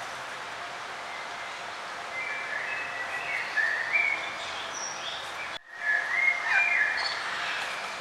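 Songbirds chirping and warbling in short phrases over a steady outdoor background hiss. The sound cuts out for a split second a little past halfway, then the birdsong picks up again.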